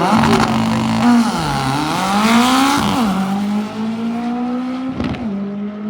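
Drag-racing car engine revving. Its pitch dips and climbs over the first few seconds, then holds at a steady high idle, with a brief crack about five seconds in.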